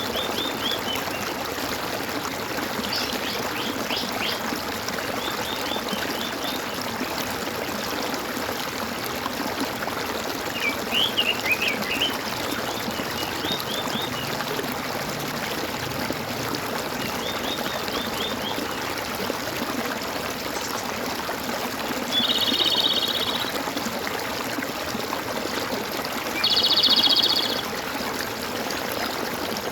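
Stream water trickling and gurgling steadily, with small birds chirping in short phrases now and then. Twice in the second half a louder buzzy call of about a second rings out over the water.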